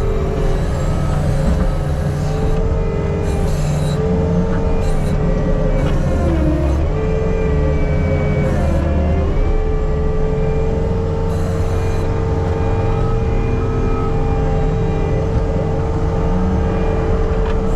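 Diesel engine of an earthmoving machine working dirt, running steadily and dipping in pitch twice near the middle, with a few short hissing bursts on top.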